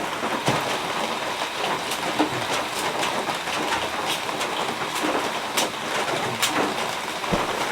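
Heavy rain falling steadily, with scattered sharp ticks and drips.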